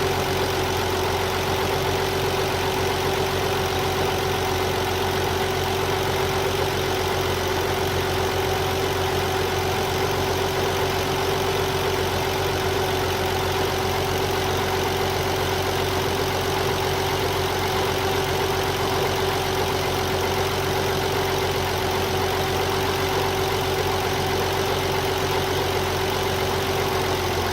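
1993 Nissan 300ZX twin-turbo V6 (VG30DETT) idling cold with a steady whine over the engine note. It is the cold-engine whine and knock that the owner first likened to a slipping belt and that goes away once the engine reaches about 189 degrees.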